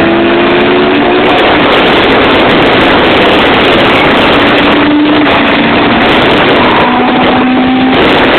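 Cars racing at full throttle from a countdown start. The engine pitch climbs near the start, then sinks under heavy wind rush that overloads the phone microphone.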